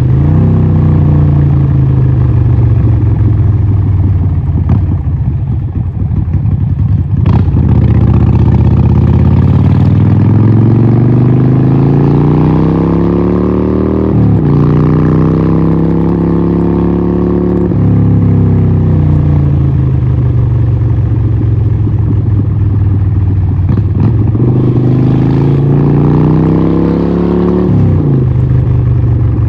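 Harley-Davidson 1200 Nightster's air-cooled Evolution V-twin running through a Vance & Hines exhaust while being ridden. It pulls up steadily in pitch, drops suddenly halfway through as it shifts up a gear, winds down, then pulls up again and shifts once more near the end.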